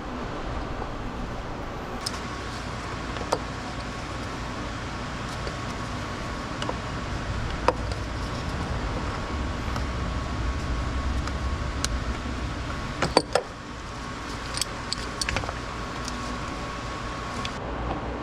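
Scattered metallic clinks and taps of hand tools and car parts over a steady low hum and a faint continuous high whine, with a quick cluster of clinks about thirteen seconds in.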